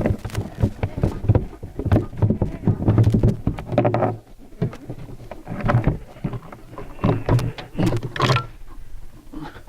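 Clunks, knocks and rattles of the engine cowl on a Johnson Super Seahorse outboard being unlatched and lifted off, in an irregular run of sharp knocks with short pauses.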